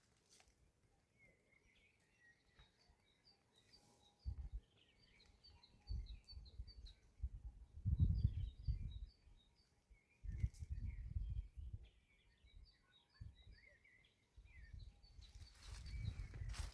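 Small songbirds chirping and twittering throughout, fairly faint. Irregular low rumbles come every couple of seconds.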